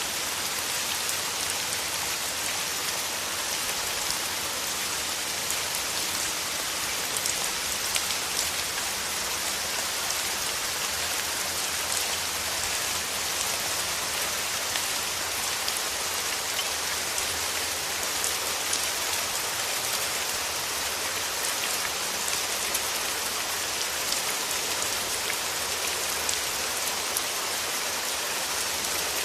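Steady rain falling through forest trees, a constant hiss of drops pattering on leaves with small drop ticks throughout.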